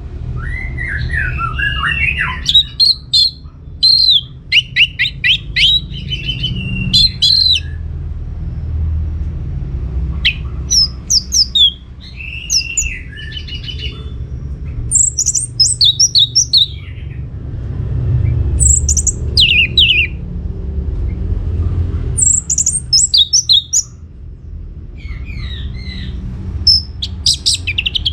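Orange-headed thrush singing loud, fast, varied phrases of whistles and chatter in bouts several seconds long, with short pauses between, over a steady low hum.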